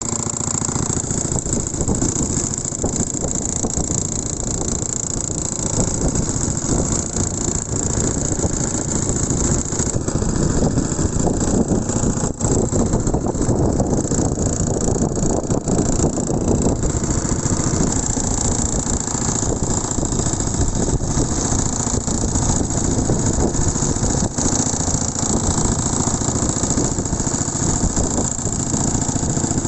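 Strong wind rumbling on the microphone over breaking waves, steady and loud throughout.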